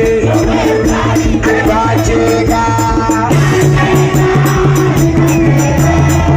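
Live band music: a steady bass line and a shaker keeping a regular quick beat, with melodic lines playing over them.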